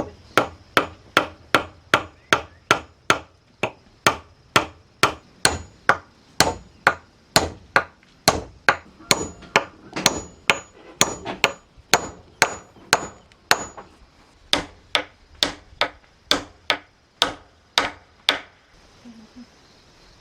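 Hammer blows struck steadily at about two a second, in runs broken by two short pauses, some with a faint metallic ring. The hammering stops near the end.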